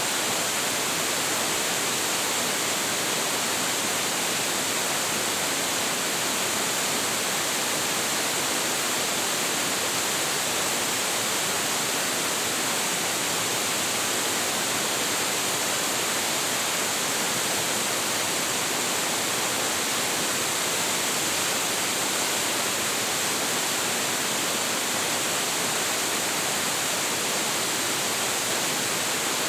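Hiji Great Falls, a 25.7 m waterfall with a heavy flow, pouring down in a steady, unbroken hiss-like rush of falling water, strongest in the upper range.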